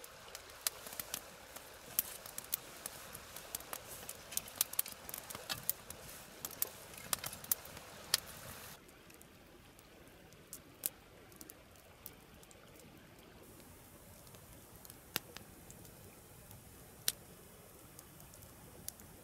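Wood campfire crackling: irregular sharp pops and snaps over a steady hiss. About nine seconds in the hiss drops, and the pops come only now and then after that.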